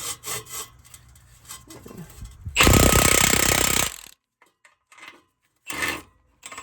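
Impact wrench hammering on the nuts of a muffler clamp: one burst of about a second and a half in the middle, then a short blip near the end, with a few light clicks of handling before it.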